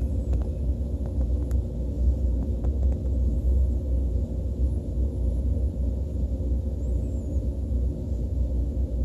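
Steady low rumble of a KTX train running, heard from inside the passenger car, with a few faint clicks in the first few seconds.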